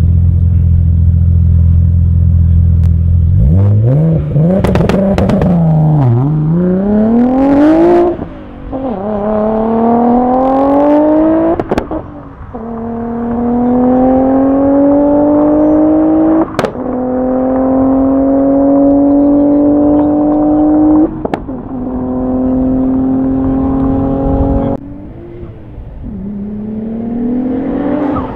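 Tuned Audi A6 C5's 2.7-litre twin-turbo V6, about 800 hp, held at steady revs on launch control and then launching hard and accelerating through the gears. The engine note climbs in each gear with a short break at every upshift, four in all. Near the end the revs fall away and then climb again.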